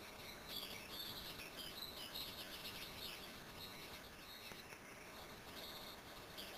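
Bird calls: a run of high, thin chirps in quick series, dense in the first half and sparser later, over a faint steady hiss.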